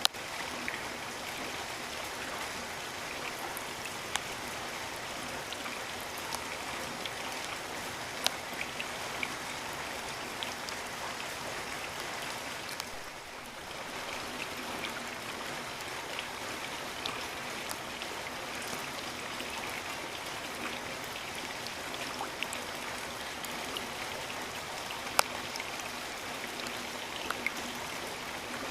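Steady rain with scattered sharp drops striking close by; it briefly softens about halfway through.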